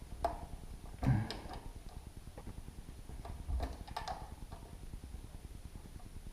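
A handful of light, irregular clicks and knocks from hinge hardware and hand tools being handled against a wooden door and frame while the hinges are fitted, with one firmer knock about a second in.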